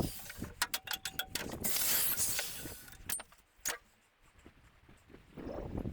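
Metalwork on a steel boat: sharp metallic knocks and clatter, with a short stretch of hissing grinding noise from a small angle grinder about a second and a half in that fades away, as a welded-on steel angle is cut free in the engine bay.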